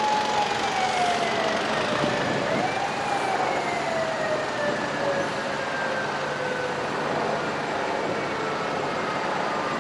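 Japanese fire engine siren wailing: a held high note slides down, swoops back up about three seconds in, then falls slowly again, over steady street and engine noise.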